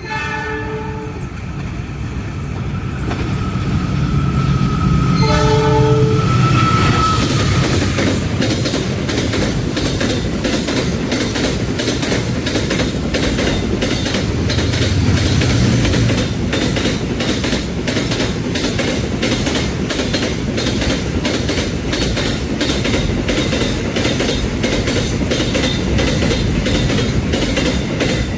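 A locomotive's horn sounds twice, a short blast at the start and a longer one about five seconds in. Then the train runs past close by, its wheels clattering in a steady clickety-clack over the rail joints with a heavy rumble underneath.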